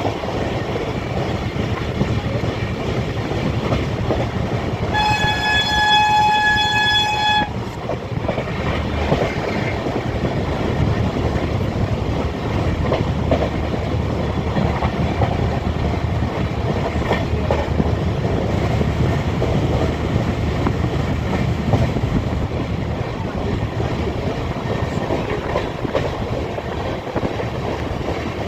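Passenger train running on the track, heard from a carriage window: a steady rumble with the clickety-clack of wheels over rail joints. About five seconds in, a train horn sounds one held blast lasting about two and a half seconds.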